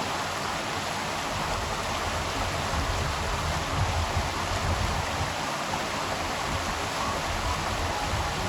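River water rushing and splashing steadily.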